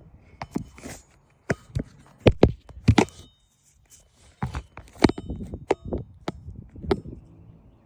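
Hammer driving roofing nails through a replacement asphalt shingle: about ten sharp, irregular strikes.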